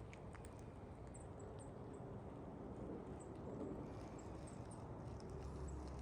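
Footsteps walking on a dirt trail strewn with fallen autumn leaves, with faint, short, high chirps now and then. A low rumble builds near the end.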